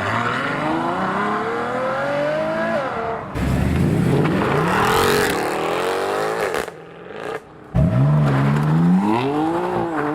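Supercar engines accelerating hard, each rising steadily in pitch before dropping at a gear change. This happens in three separate bursts split by abrupt breaks, with a brief quieter gap before the last run.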